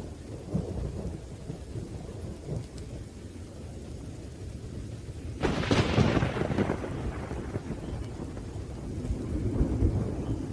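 Thunderstorm: low rolling thunder rumbling over rain, with a sharp thunderclap about halfway through that fades over a second or two, and the rumble swelling again near the end.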